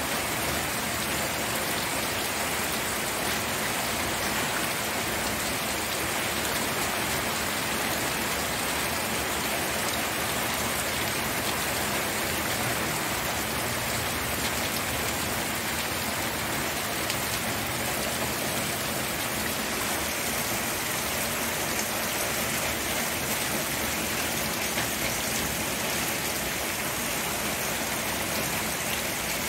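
Steady rain falling and pattering on surfaces, an even continuous hiss of drops without let-up.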